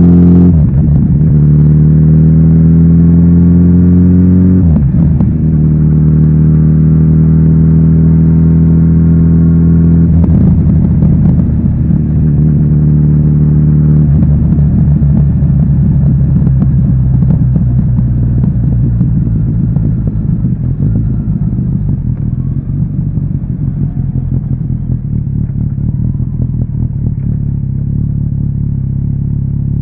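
Kawasaki Z900RS's inline-four engine through its stock exhaust, pulling in gear with the pitch climbing and then dropping at gear changes about half a second and four and a half seconds in. The revs then hold steady, and from about halfway the engine runs lower and grows gradually quieter as the throttle eases off.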